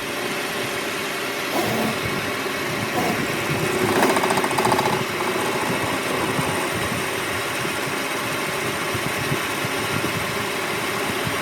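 Machinery running steadily, a dense mechanical noise with faint steady tones that swells briefly about four seconds in.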